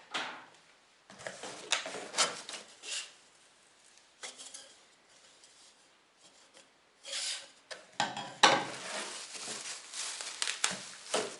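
Heater-kit parts and packaging being handled: irregular clinks, knocks and rubbing in spells, busiest near the start and again from about seven seconds in.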